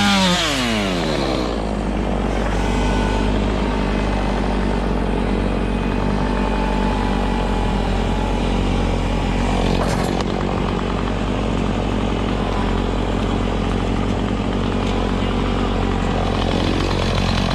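A chainsaw comes off full throttle and winds down to idle at the start, over the steady low running of a Kubota tractor's diesel engine; near the end an engine revs up again.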